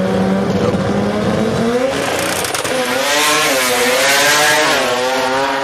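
A car engine running hard, steady at first, then its pitch swinging up and down from about two seconds in as the revs rise and fall. Tyre squeal hisses over it in the second half.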